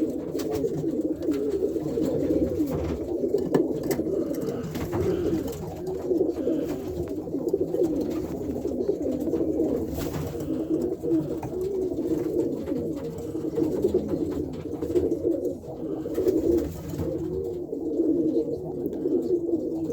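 A loft full of pigeons, mostly cock birds, cooing continuously, many calls overlapping without a break. It is the courting coo of cocks wanting to pair up.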